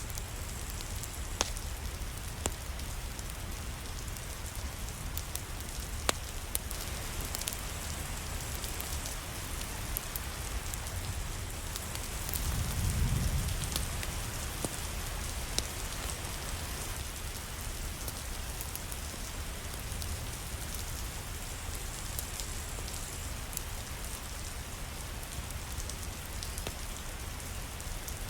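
Steady rain falling, with scattered sharp clicks of drops or crackles. A low rumble swells and fades about halfway through.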